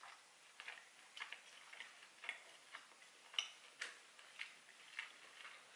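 Close-up chewing of a bite of steak: faint, irregular wet mouth clicks about twice a second, one louder click partway through.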